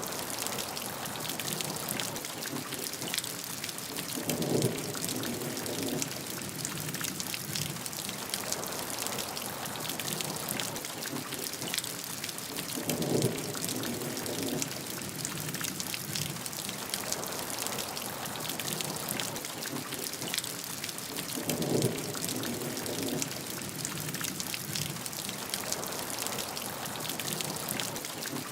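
Steady heavy rain, a dense hiss of drops pattering on a surface. Three brief low rumbles come through about nine seconds apart.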